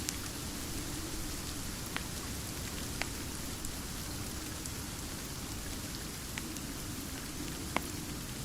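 Steady rain falling, an even hiss, with a few sharp pops or ticks scattered through it; the loudest comes near the end.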